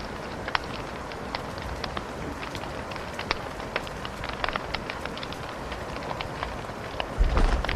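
Wood fire crackling with frequent sharp pops over a steady hiss of rain. Near the end a loud, low rumble of thunder sets in.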